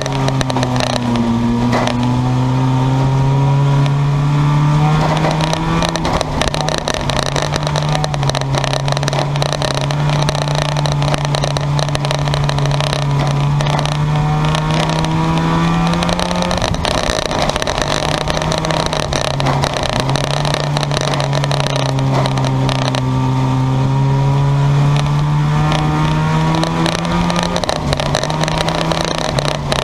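Race cars' engines running hard around an oval track, their pitch climbing slowly and then dropping sharply about every ten seconds.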